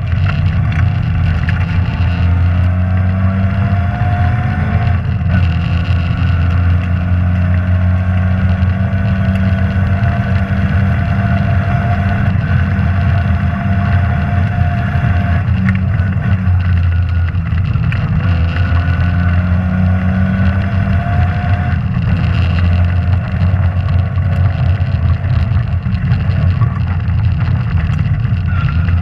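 Rally car engine running hard on a stage, its revs climbing and dropping again and again over a heavy steady drone.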